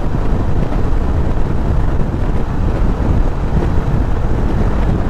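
Wind buffeting a helmet-mounted camera on a motorcycle cruising at about 50 mph, a steady low rush with the bike's running engine underneath.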